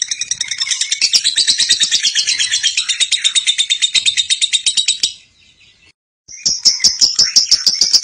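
Lovebird giving a long, rapid, high-pitched chattering trill (the 'ngekek' call), with a break of about a second just past the middle before the chatter resumes.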